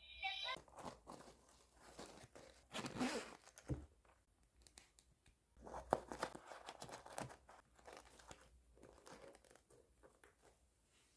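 Toy packaging being opened by hand: irregular crinkling and tearing of wrapping, with short clicks and handling knocks. The loudest bursts come about three and six seconds in.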